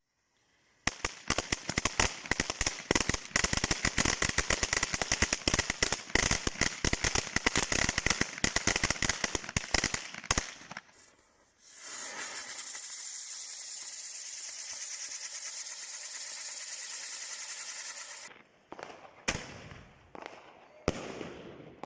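Fireworks: a rapid string of firecracker bangs for about ten seconds, then a steady hiss for about six seconds, then two separate bangs near the end.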